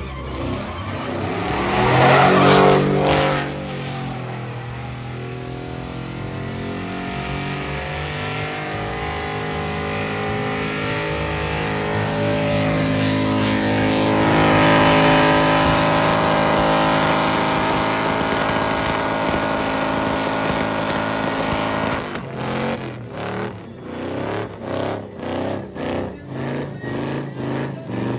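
Truck engine revving hard and held at high revs while the tyres spin, loudest about two to three seconds in. Near the end the revs pulse up and down about twice a second.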